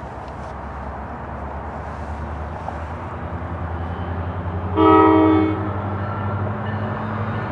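Diesel locomotive engine rumbling louder as the train approaches, then one short multi-note horn blast, under a second long, about five seconds in.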